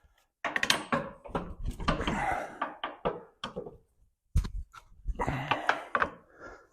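Hand tools and loose metal parts clanking and knocking in an irregular series, with a short lull about four seconds in, during work on a truck's torsion bar suspension.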